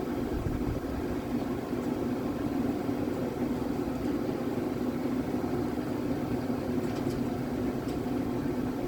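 Steady mechanical hum with a rough low rumble underneath, from a boat motor running under way.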